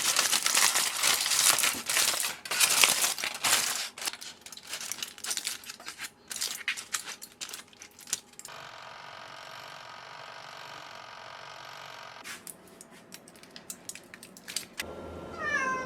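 Dense, irregular crackling and crinkling for several seconds, then a steady hum for about four seconds, followed by scattered clicks.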